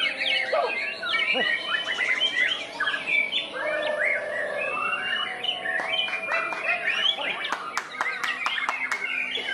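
White-rumped shama (murai batu) singing a fast, varied string of whistles and gliding notes, with a run of sharp clicking notes toward the end.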